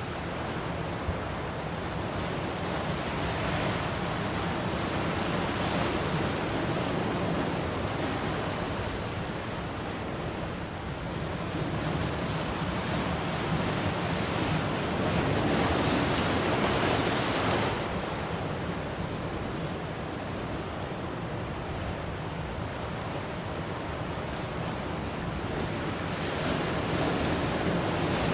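Ocean waves breaking and washing on a shore, a steady rushing that swells to a louder wash about halfway through and again near the end.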